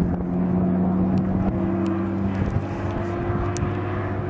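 Supercharged BMW E46 M3's straight-six engine running on track, holding a steady note, then easing off slightly a little past halfway.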